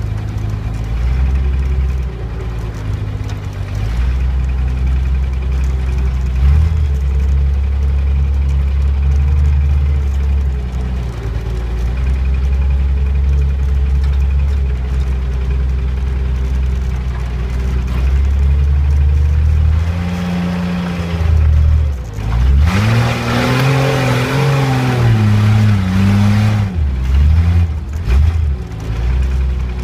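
1991 Jeep Cherokee XJ's 4.0-litre HO straight-six running at low speed off-road. Heard from inside the cab. About two-thirds of the way through, the engine revs up and down for several seconds, with a loud rushing hiss over it.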